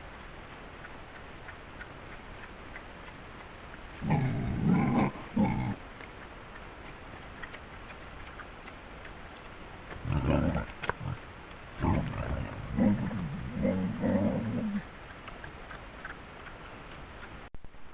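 A large animal calling in low, rough bursts: a short group about four seconds in, then a longer run of calls from about ten to fifteen seconds in. A steady hiss from the trail camera's microphone lies underneath.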